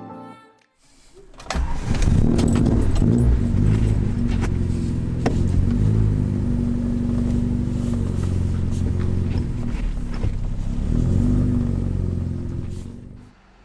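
1975 Alfa Romeo GTV 2-litre's four-cylinder engine starting about a second and a half in and running, its pitch shifting a little with the throttle, then fading out near the end.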